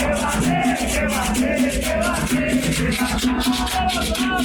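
Candomblé ritual music: voices singing a chant over a steady rattling shaker.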